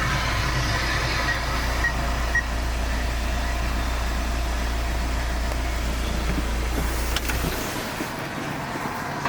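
A motor vehicle running with a steady low rumble that cuts off suddenly about seven and a half seconds in.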